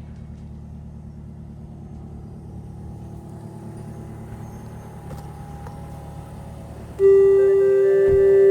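A steady low rumble, then about seven seconds in a loud bell-like ringing tone with several overtones starts suddenly and holds.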